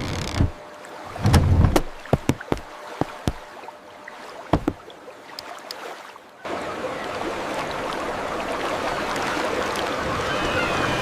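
Steady sea-wave and water ambience that drops away just after the start, leaving about six seconds of scattered sharp knocks and a few heavier thumps, the loudest a low thump about a second and a half in; the wave ambience then cuts back in abruptly.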